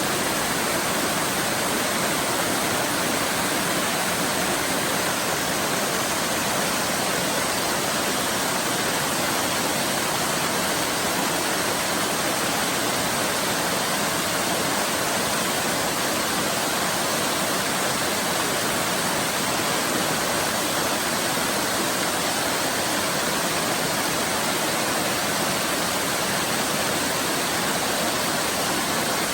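Waterfall rushing and splashing: a steady, even roar of falling water that does not change.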